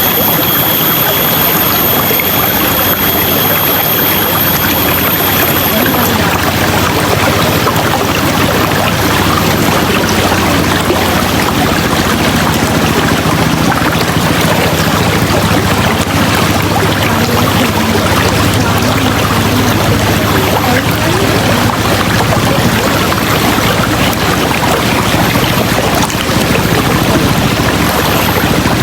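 River water rushing and splashing steadily.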